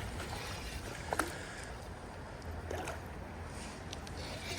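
Creek water running steadily under a low rumble, with one light click about a second in.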